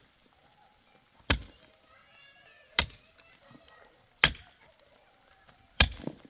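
Four sharp knocks, evenly spaced about a second and a half apart.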